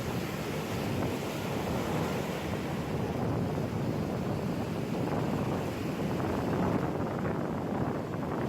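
Ocean surf washing on the shore, mixed with wind buffeting the microphone.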